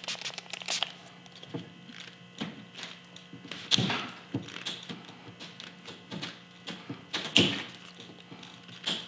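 Irregular clicks, taps and knocks of hand-held paintless dent repair tools and glue tabs being handled, with two louder knocks about four and seven seconds in, over a steady low hum.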